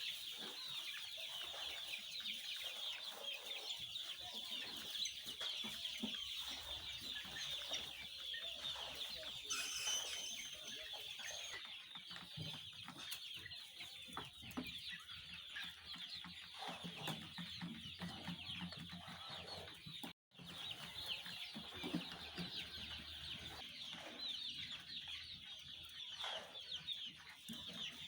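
A flock of 8-week-old chickens peeping and clucking, a dense continuous chatter of many high calls, broken by a split-second gap about twenty seconds in.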